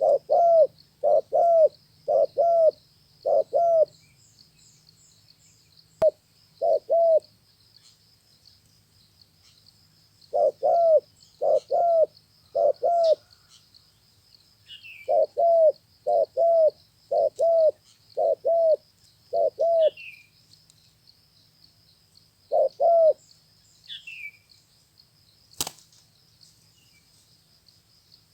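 Spotted dove cooing, a caged 'tơ máu' calling bird: repeated phrases of short, low coos in pairs and triplets, with pauses of a few seconds between phrases. A steady high-pitched buzz sits behind it, and there is one sharp click near the end.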